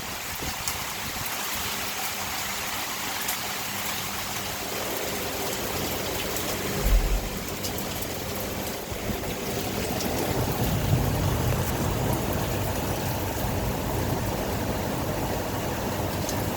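Steady rain during a thunderstorm. A short, low thump comes about seven seconds in, and a low rumble of thunder builds from about ten seconds in.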